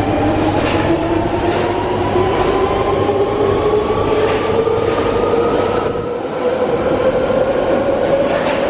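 London Underground 1992 Stock tube train's traction motors whining, the pitch rising slowly and steadily as the train accelerates. A few faint clicks from the wheels come over it.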